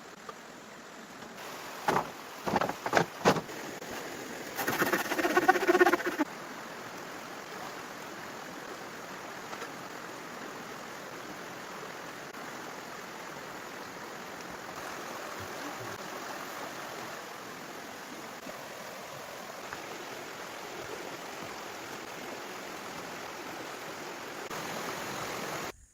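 A steady rushing noise like flowing water, with a few sharp knocks about two to three seconds in and a brief pitched call or cry around five seconds in.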